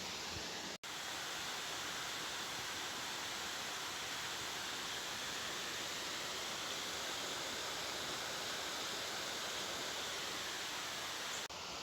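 Steady rushing noise of flowing water, with no distinct events. It cuts out for an instant about a second in.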